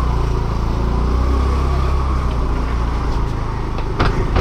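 A motor vehicle engine running steadily with a low rumble. Two sharp knocks come near the end.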